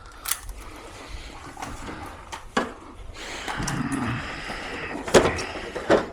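Scattered clicks and knocks of plastic air-conditioner parts being handled during disassembly, with a sharper knock about five seconds in.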